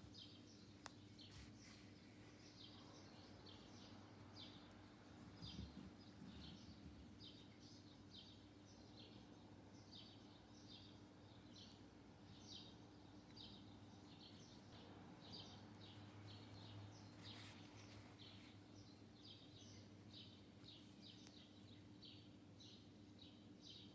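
Near silence with a bird chirping faintly over and over, about two short high chirps a second, over a low steady hum.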